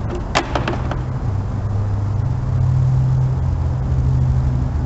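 A steady, loud, low mechanical hum that steps up slightly in pitch after about a second and a half, with a few sharp clicks in the first second.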